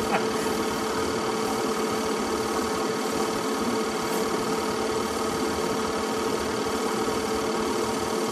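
Film projector running with a steady whirring hum and an even drone.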